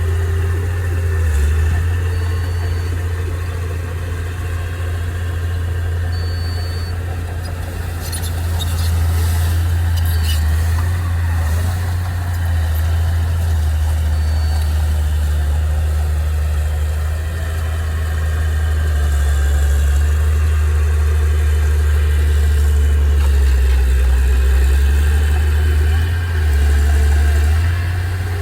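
Engine of heavy earthmoving machinery, a bulldozer or truck, running steadily with a deep drone that swells and eases a little, and a few short knocks about eight to eleven seconds in.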